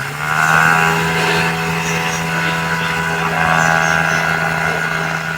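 Small DC motor starting up and running at a steady whine, spinning the rotor of a homemade toy helicopter.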